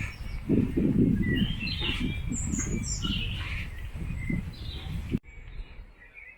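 Small birds chirping and trilling over an uneven low rumble. The rumble cuts off abruptly about five seconds in, leaving fainter birdsong.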